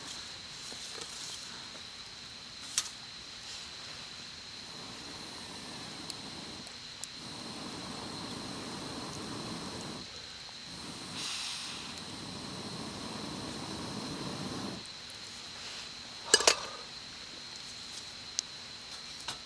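Quiet outdoor campsite sounds: a steady thin high whine throughout, several seconds of rustling hiss in the middle, a sharp knock about three seconds in, and a louder double knock near the end.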